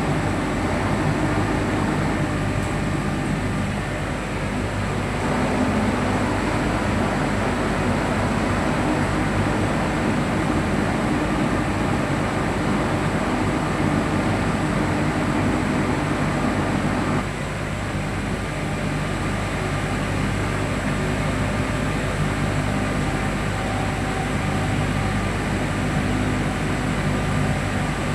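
Steady running noise of a locomotive in motion heard from the cab: a continuous hum with a faint high steady whine. It eases slightly about seventeen seconds in.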